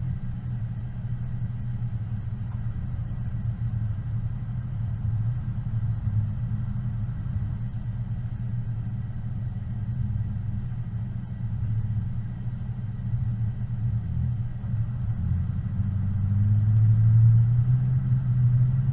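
A vehicle engine drones low and steady while driving off-road. Near the end it grows louder and its pitch rises as it picks up revs.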